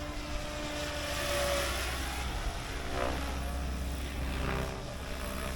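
RC helicopter in flight: a steady rotor and motor whine, with faint tones that drift in pitch as it manoeuvres.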